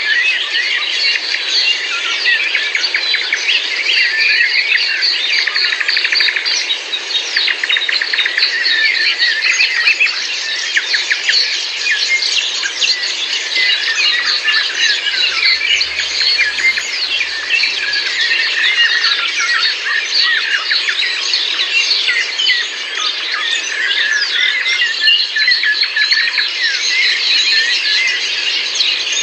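Many songbirds singing and chirping at once: a dense, unbroken chorus of overlapping short calls.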